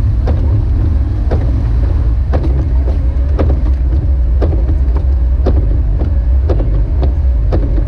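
Jeep Wrangler YJ driving on snowy roads: steady engine and road rumble, with a sharp tick or knock repeating about once a second.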